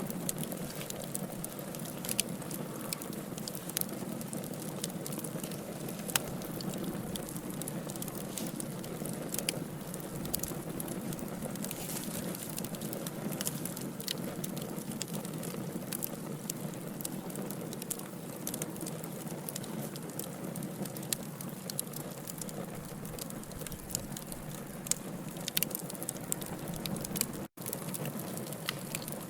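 Wood fire of burning logs, with a steady low hiss and frequent sharp crackles and pops. The sound drops out for an instant near the end.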